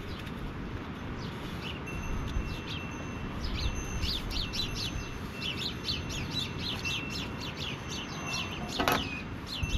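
Small birds chirping: a quick run of short, sharp chirps starts about two seconds in and carries on over a low steady rumble, with one sharp knock near the end.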